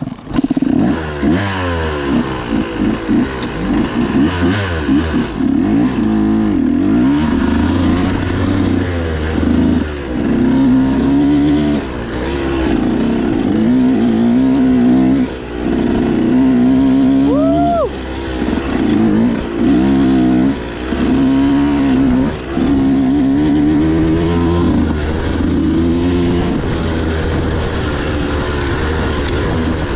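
Motocross dirt bike engine being ridden, revving up and down over and over, its pitch climbing and falling with the throttle, with short dips in level every few seconds.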